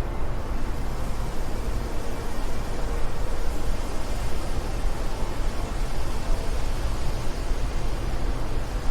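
Steady wind, a constant rushing noise with a deep rumble underneath.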